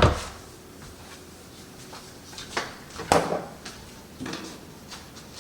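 Kitchen handling knocks: a sharp knock right at the start, two more clattering knocks about two and a half and three seconds in, and a softer one a little later, as dishes and a baking pan are moved about on the counter.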